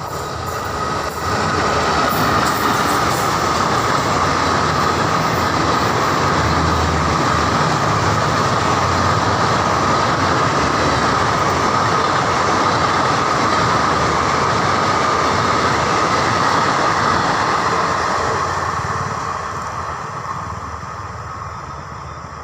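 Passenger train hauled by an Indian Railways WAP-4 electric locomotive passing close by: loud, steady rail noise that swells about a second in and dies away over the last few seconds as the train moves off.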